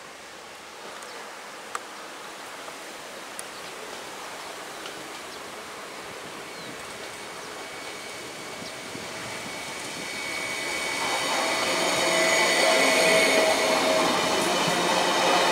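Alstom Coradia iLint hydrogen fuel-cell train approaching and passing close by on the rails. Its sound builds from about ten seconds in, with wheels running on the track and a steady high whine, loudest as the cars go past.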